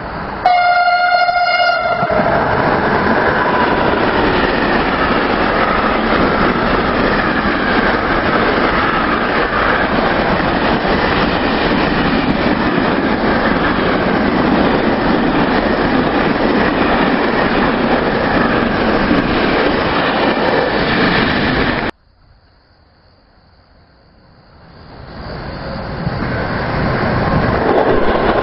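A train gives a short horn blast and passes at speed, its wheels rolling loudly on the track for about twenty seconds before the sound cuts off suddenly. Near the end another train approaches, growing louder.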